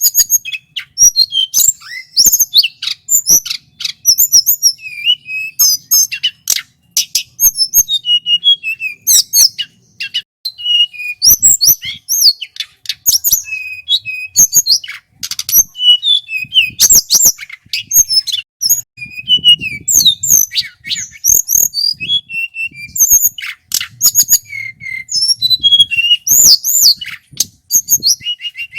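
Male tledekan gunung (hill blue flycatcher) singing loudly without pause: a rapid, varied run of high whistled notes and trills broken by sharp clicking notes.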